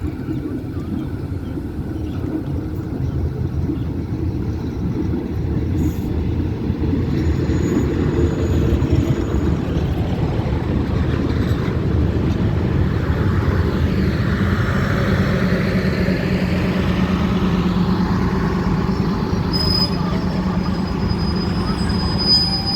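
Train running on the rails: a steady low rumble that grows louder over the first several seconds, with a thin, high wheel squeal that sets in near the end.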